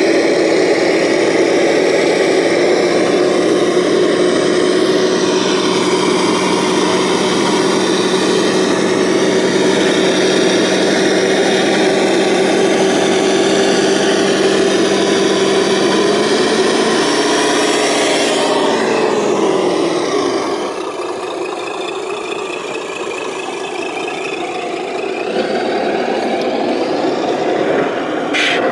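Radio-controlled model trucks running: a steady motor whine that slides down in pitch and fades about two-thirds of the way through, leaving a quieter rumble with a brief warbling high beep, and a sharp click near the end.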